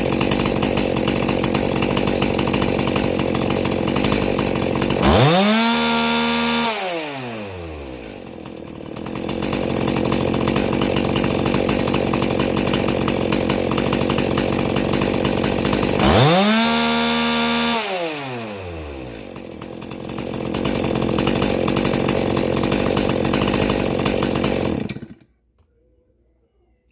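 Stihl 261 chainsaw's two-stroke engine running, revved twice to wide-open throttle and held there for about a second and a half each time before dropping back, then shut off near the end. It is being tuned on a tachometer for a top speed of about 13,900 rpm, backed off from 14,200 to keep the rebuilt, mildly ported engine on the safe side.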